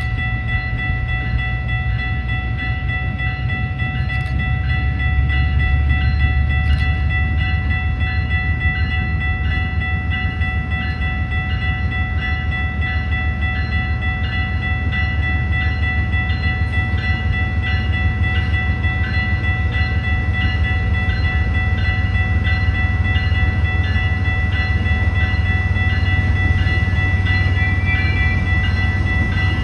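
Diesel freight train approaching behind CN locomotive 3067, a heavy low engine and wheel rumble that grows a little louder as the locomotive draws near. Steady high-pitched ringing tones sound over the rumble throughout.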